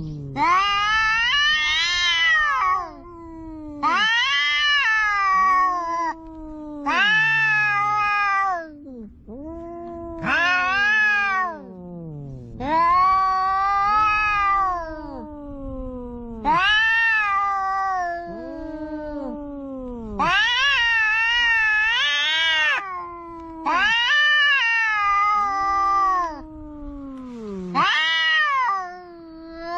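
Two cats yowling at each other in a quarrel: about nine long, drawn-out caterwauls, each rising and then falling in pitch, traded back and forth with short pauses between.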